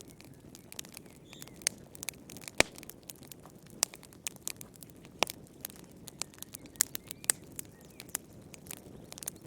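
Wood fire crackling in a fireplace: irregular sharp snaps and pops over a low, steady rustle, the loudest snap a little past two and a half seconds in.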